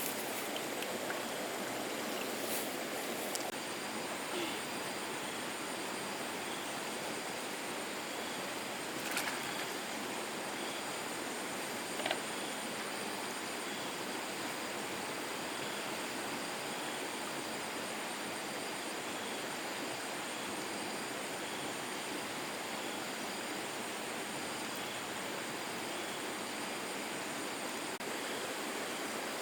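Steady rushing of flowing water, with a few brief sharp knocks or splashes.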